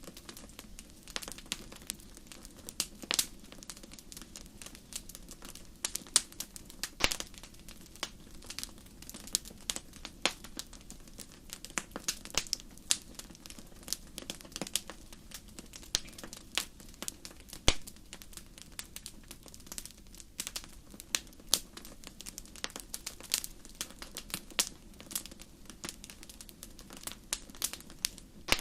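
Wood fire crackling and popping: irregular sharp snaps, several a second, some louder than others, over a soft low rush of the flames.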